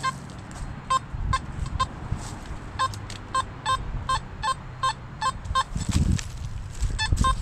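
Metal detector beeping in short, repeated tones as the coil is swept over a buried target, with a couple of low thumps near the end.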